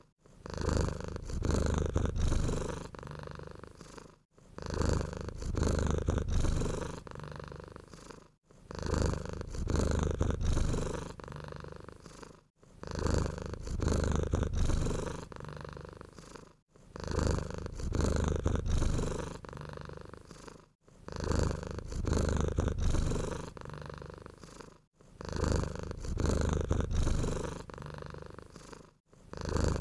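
Domestic cat purring close up, a low rumble that swells and fades in a steady cycle about every four seconds, with a brief pause between cycles.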